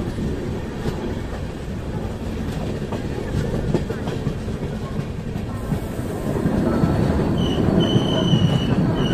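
LHB passenger coaches running along the track, heard from an open coach door, with rail clicks in the rumble. About seven seconds in, a high-pitched wheel squeal sets in, twice, as the train runs into a station.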